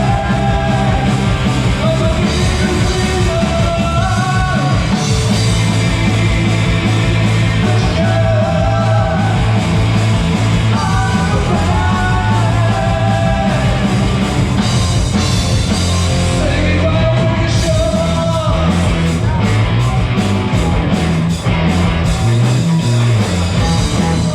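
A rock band playing loudly, with a sung vocal line over the band. The singing stops about eighteen seconds in and the band plays on with heavy drum strikes.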